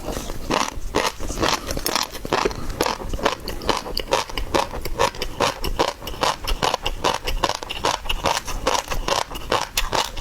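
Close-miked eating of seafood: continuous chewing, biting and crunching, several wet mouth sounds a second.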